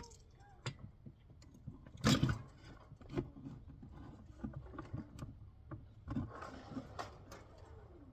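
Workshop handling noise: scattered knocks and clatters of tools and metal parts, with one loud knock about two seconds in and a stretch of scraping and rattling near the end.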